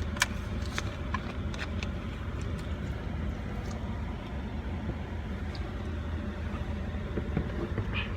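Steady low rumble of a running car engine, with a few light clicks and taps over it.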